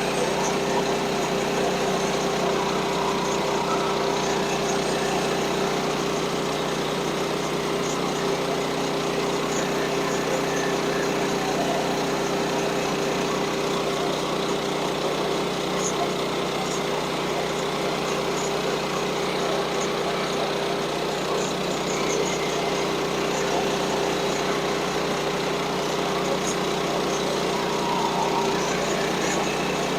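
Small engine of a portable bandsaw sawmill running steadily at constant speed, with no change in pitch or level.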